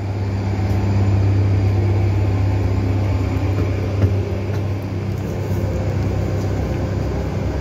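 Steady low hum of a stopped Caltrain commuter train idling at the platform, with a single knock about four seconds in.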